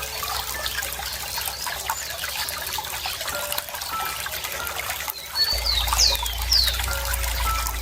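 Running water trickling steadily, with birds calling over it: short whistles throughout, and two quick downward-sweeping calls about six seconds in. A low hum comes in about five and a half seconds in.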